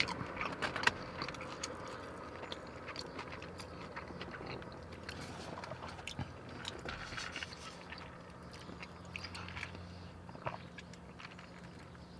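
Close-up chewing of a mouthful of pastrami burger, with many small wet mouth clicks.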